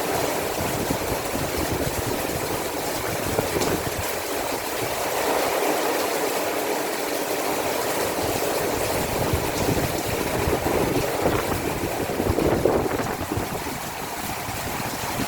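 Heavy rain from a rainstorm falling steadily: an even hiss of countless drops pattering and splashing.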